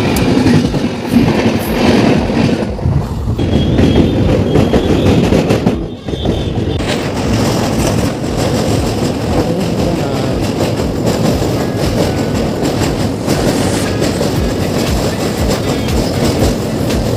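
A passenger train running along the track, with continuous heavy rolling noise from the wheels on the rails. The noise dips briefly about six seconds in.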